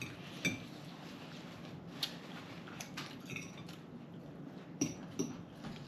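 Cutlery and dishes clinking and tapping during a meal at the table: a scattering of short, light clicks a second or so apart.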